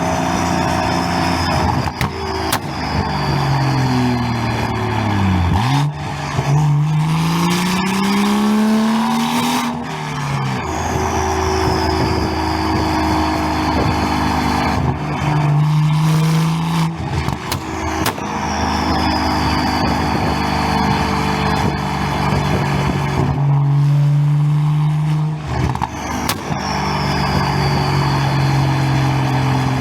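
BMW 340i's first-generation B58 3.0-litre turbocharged inline-six, heard through a single-exit exhaust, holding steady, dropping in pitch and then climbing again as it accelerates. A thin high whine slides down in pitch four times.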